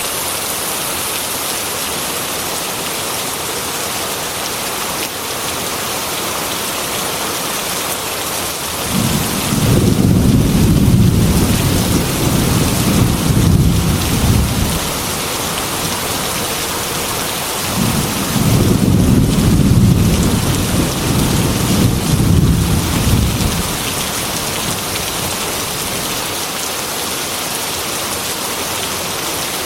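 Heavy rain falling steadily on a metal roof, with two long low rolls of thunder: one starting about nine seconds in and lasting some six seconds, another starting about eighteen seconds in and lasting some five.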